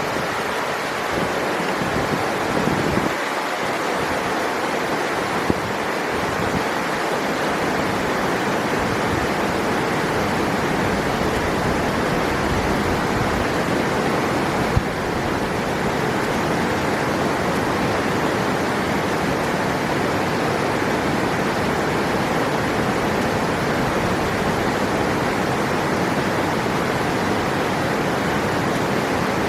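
River water rushing steadily over rocks, a continuous even rush with a couple of faint clicks.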